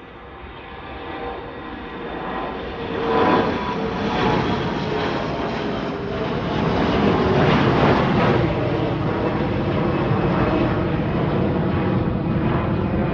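Engines of an airliner at takeoff power during departure, a loud roar that builds over the first few seconds and then holds.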